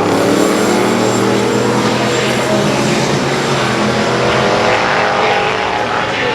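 Performance truck engine running loudly, its pitch drifting up and down slightly.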